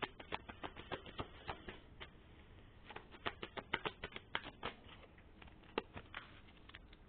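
Tarot cards being shuffled and handled: quick runs of light clicks and taps of the cards, one through the first two seconds and a denser one about three seconds in, then a couple of single taps near the end.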